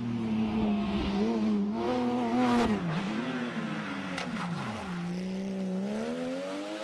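Rally car engine revving up and down, its pitch dipping about three seconds in. About four and a half seconds in, a falling pitch sounds like a car passing by. Then the engine steadies and climbs a little near the end.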